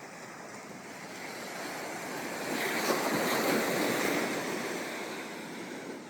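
Ocean wave breaking and washing up the beach: the surf swells about a second in, is loudest around three to four seconds, then fades as the water draws back.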